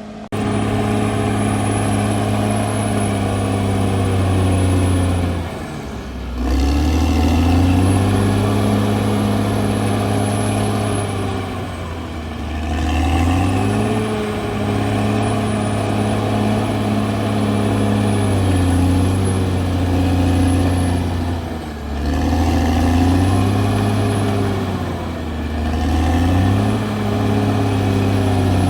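CAT D6R bulldozer's diesel engine running hard, its pitch sagging and climbing back every several seconds as load comes on and off, with a faint high whine over it.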